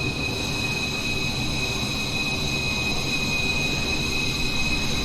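Jet aircraft engine running steadily: a constant high-pitched whine over a low rumble.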